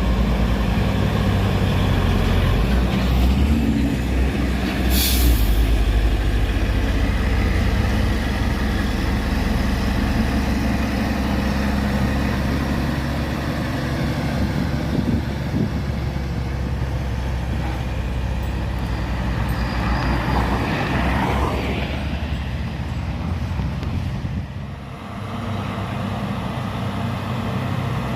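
Heavy diesel truck engine running steadily under load, with a short sharp hiss of air about five seconds in.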